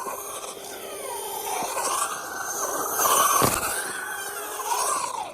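Traxxas Rustler 2WD RC truck's electric motor whining, its pitch rising and falling again and again with the throttle, loudest about three seconds in.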